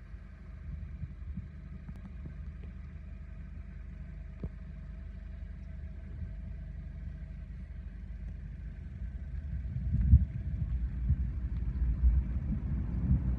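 Steady low rumble with a faint steady whine above it, and wind buffeting the microphone in irregular gusts from about ten seconds in.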